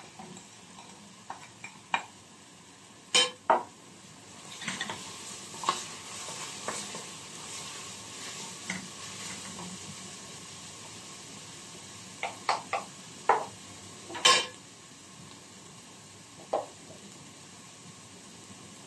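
Onions frying with tomato paste and spices in a stainless steel pot, sizzling steadily and a little louder from about four to nine seconds in, while a wooden spoon stirs and scrapes. Sharp knocks of the spoon against the pot, loudest about three seconds in and about fourteen seconds in.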